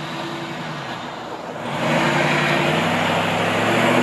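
An engine running with a steady low hum, getting louder about two seconds in.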